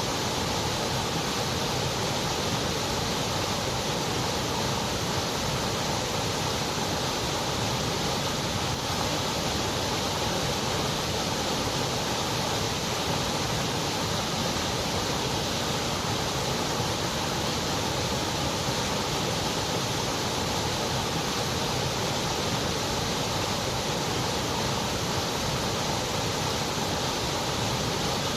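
Continuous white noise, an even hiss with no changes, its highest frequencies rolled off.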